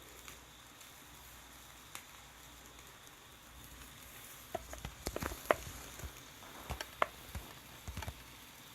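Fire burning in a tabletop fire pit, crackling with scattered sharp pops that come thicker after about four and a half seconds, over a faint steady hiss.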